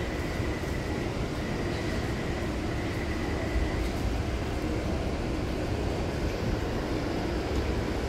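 Metro train running with a steady low rumble, and a faint high whine that fades out about halfway through.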